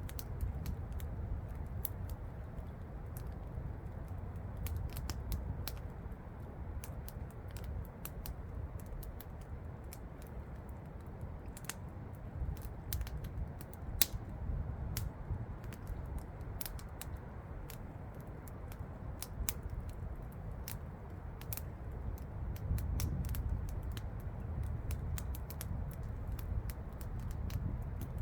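Wood campfire crackling, with many irregular snaps and pops over a steady low rumble.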